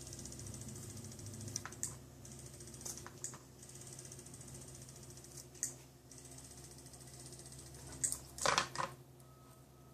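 Scattered sharp clicks and taps from a hummingbird cat toy being batted about by a cat, with the loudest cluster of knocks near the end, over a steady low hum.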